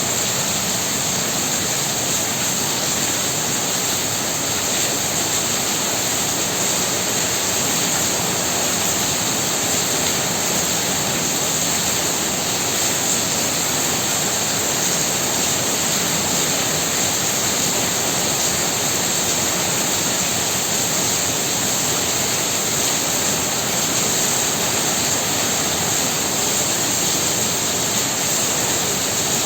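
Heavy rain pouring down in a dense, steady hiss, with no breaks or single drops standing out.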